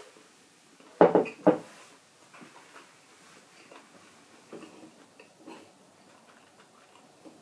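Tableware being handled during a meal: two loud clatters half a second apart about a second in, then faint scattered taps and clicks.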